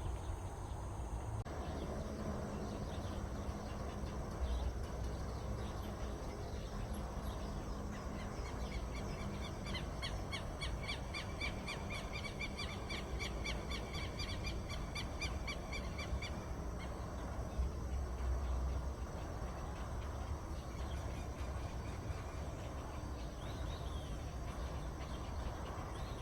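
A bird calling a long, rapid series of short repeated notes that starts about eight seconds in and stops after roughly eight seconds, over a steady low outdoor rumble.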